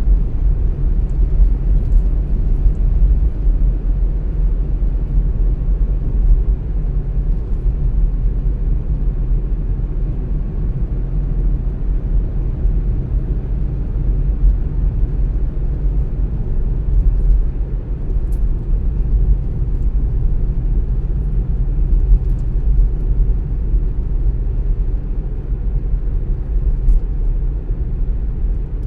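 A car driving along at a steady pace: a steady low rumble of tyres on the road and the engine.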